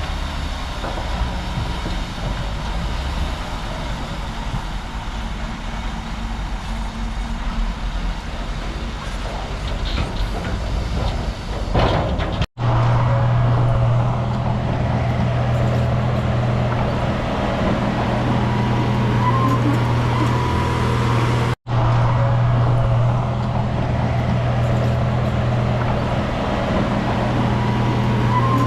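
Diesel engine of heavy earthmoving machinery running steadily with a low rumble. About twelve seconds in, the sound cuts out for an instant and comes back as a louder, steady engine drone. Near the end of the second third there is another brief dropout.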